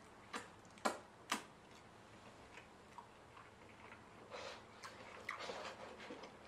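Three sharp crunches about half a second apart as crispy fried chicken is chewed. Near the end comes soft crinkly rustling as a paper cup of food is handled.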